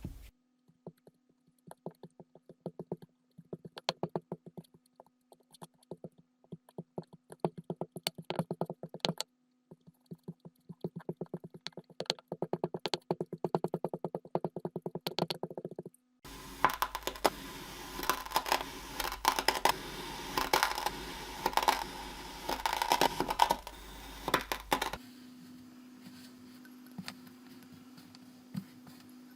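Kinetic sand being worked: runs of rapid, crisp crackles and clicks over a faint steady hum, then a louder, denser crunching and scraping for about nine seconds, easing to a few soft clicks near the end.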